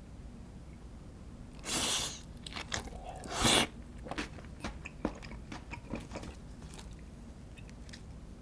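Close-up eating sounds from a person eating: two short, loud noisy bites about two and three and a half seconds in, followed by a run of small wet chewing clicks that fade out over the next few seconds.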